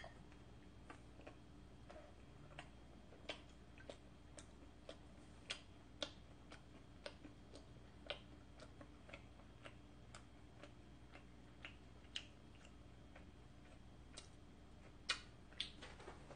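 Faint, fairly regular mouth clicks of chewing, about two a second, from someone eating a piece of condensed-milk baguette close to the microphone, with a couple of louder clicks near the end.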